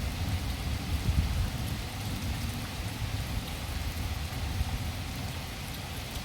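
Steady rain falling during a thunderstorm, with a low rumble of thunder that is loudest in the first couple of seconds and then dies away.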